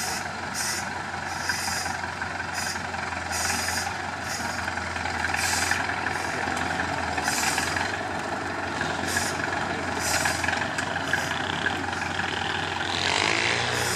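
Truck's diesel engine running steadily, revving up near the end, with short repeated bursts of hiss.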